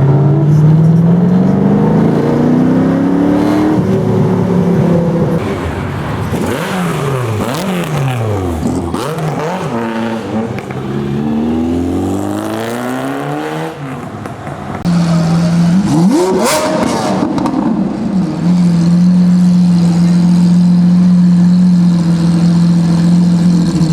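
Supercar engines revving and accelerating. The engine note climbs at first, then sweeps up and down several times. A sharp rev blip comes about two-thirds of the way through, followed by a steady held note near the end.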